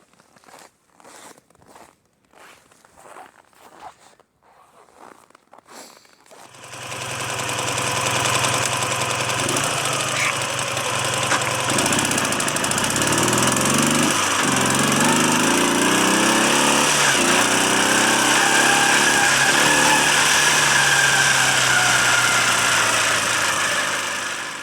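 Faint ticking, then about six seconds in the quad's Dnepr MT-10-36 flat-twin motorcycle engine starts and runs, its revs rising and falling a few times.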